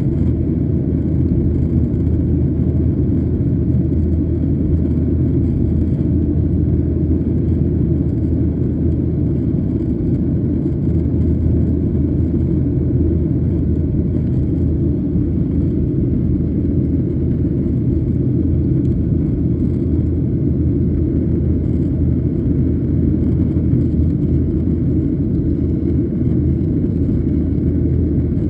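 Steady, loud low rumble of cabin noise aboard a Boeing 737-800 with its CFM56-7B engines running, unchanging in pitch and level.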